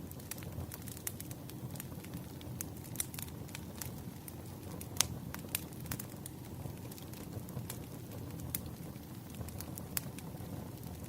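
Wood fire crackling: irregular sharp pops and snaps over a steady low rustle of flames, with the loudest pop about halfway through.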